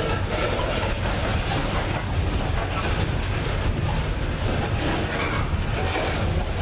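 Loaded coal train passing on a grade, a steady low rumble with no breaks.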